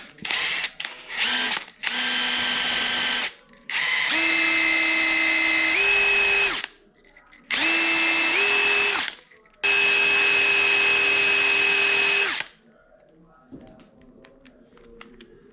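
Electric drill run in five bursts of a few seconds each, its motor pitch holding steady and then stepping up as the trigger is pressed harder.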